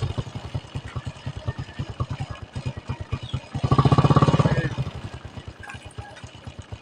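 Motorcycle engine running on its newly replaced primary ignition coil, the sign that the coil was the cause of its cutting out. It is revved up briefly about four seconds in, then drops back and its firing slows and fades toward the end.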